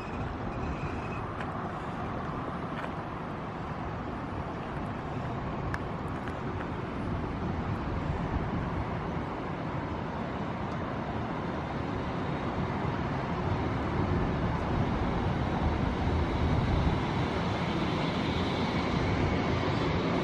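A train approaching along the line: a steady rumble that grows louder over the last several seconds, with hiss rising near the end.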